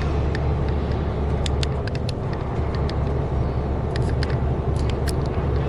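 Truck engine and road noise inside the cab while driving, a steady low hum, with scattered irregular sharp clicks over it.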